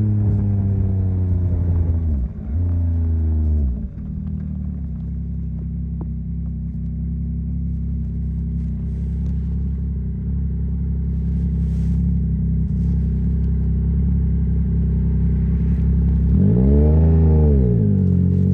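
2021 Yamaha MT-09's three-cylinder engine slowing down, with two quick breaks in the note as gears change. It then runs at a steady low note, and near the end gives one quick rev that rises and falls.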